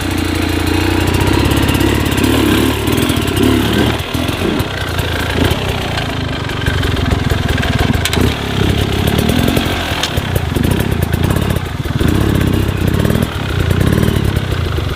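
Dirt bike engine running under load, its revs rising and falling unevenly throughout.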